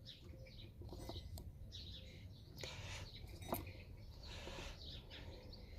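Faint birdsong in the background, with a few light clicks, the sharpest about three and a half seconds in.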